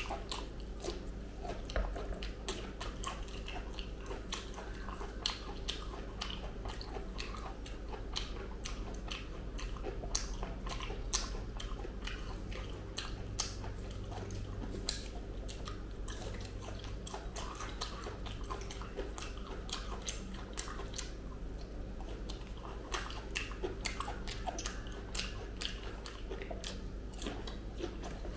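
Close-miked eating of ripe jackfruit bulbs: soft, wet biting and chewing with many short mouth clicks throughout, over a steady low hum.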